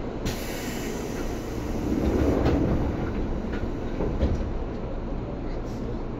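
Seibu 2000 series electric train running on the rails: a steady rumble of wheels and running gear, with a few clicks as the wheels pass over rail joints. It grows louder for a second or so about two seconds in.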